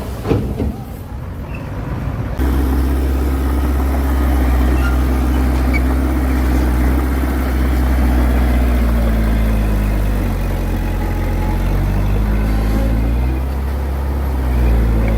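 Heavy diesel engine of earthmoving machinery running, cutting in loudly a couple of seconds in; its speed sags and rises again in the second half.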